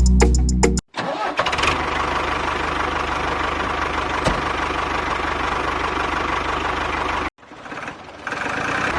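A motor running steadily with a rapid, even pulsing, starting about a second in and cutting off abruptly near the end. Music plays briefly before it.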